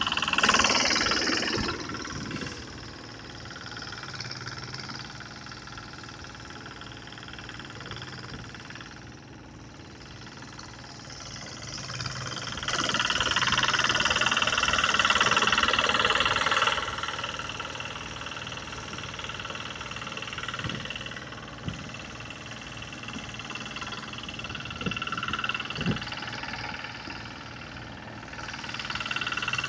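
Engine-driven rice threshing blower running steadily with an even pulsing beat. A rushing noise swells louder for a few seconds in the middle, then settles back.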